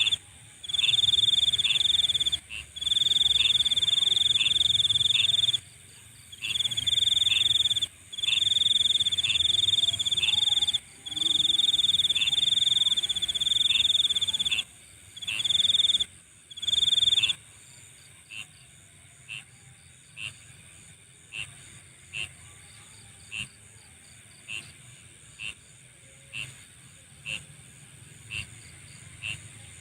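Night insects calling: a loud, high trill in bouts of one to two seconds with short gaps, which stops about seventeen seconds in. After that, single short chirps about once a second continue over a faint, steady, very high buzz.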